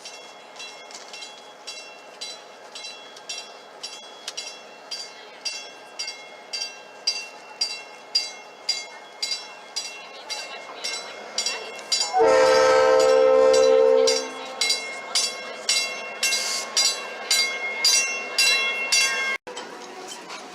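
South Shore Line electric commuter train pulling in, a bell clanging steadily about twice a second throughout. About twelve seconds in, the train's horn sounds once for about two seconds and is the loudest thing heard.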